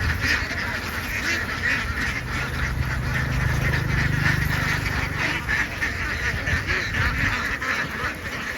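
A large flock of laying ducks quacking and calling all at once in a dense, continuous chatter. A low steady hum runs beneath it for a few seconds in the middle.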